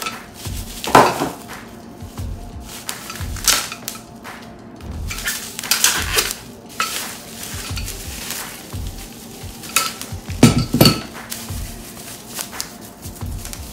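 Metal scooter parts clinking and clanking as they are handled for assembly: a string of irregular knocks and rattles, the loudest about a second in and again around ten to eleven seconds.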